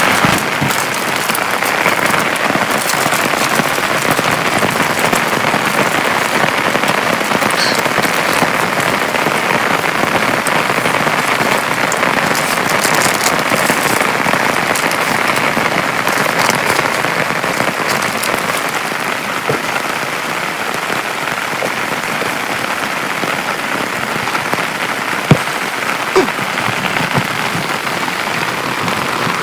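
Heavy rain falling steadily, with many sharp drop ticks throughout. Two short, sharp taps come about 25 and 26 seconds in.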